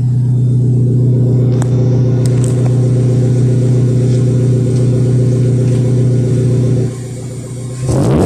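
Exhaust of a Proton Persona's four-cylinder engine through an HKS muffler on a direct pipe, held at a steady rev with a loud, deep drone. About seven seconds in it falls away, then comes back with a shifting pitch near the end.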